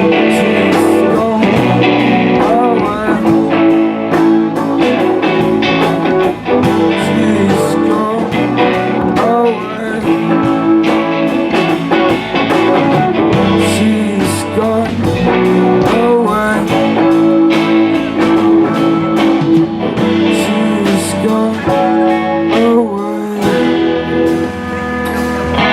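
Live band playing an instrumental passage: a guitar lead with bent notes over the band, with drum and cymbal hits.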